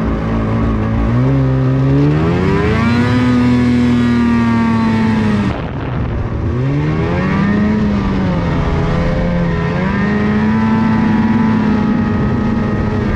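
Snowmobile engine revving: it climbs from a low note to a high one and holds, drops off sharply about five and a half seconds in, then revs back up and keeps running high with small rises and falls. The sled is stuck in a snowdrift and being worked to pull free.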